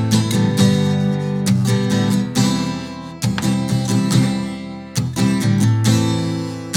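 Acoustic guitar strummed in a song's instrumental intro, chords struck in a steady rhythm with each strum ringing out.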